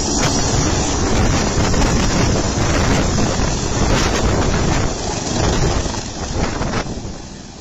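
Helicopter close by, its rotor downwash blowing hard across the microphone as a loud, gusty rushing noise that covers the engine's own sound. The rush eases about seven seconds in.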